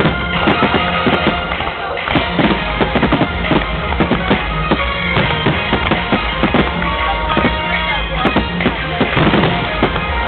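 Dense, rapid fireworks shell bursts of a grand finale, one bang after another, over loud music.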